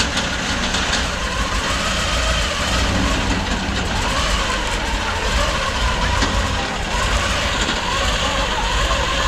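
27-litre Rolls-Royce Merlin V12 aircraft engine in a custom estate car, idling with a steady deep rumble.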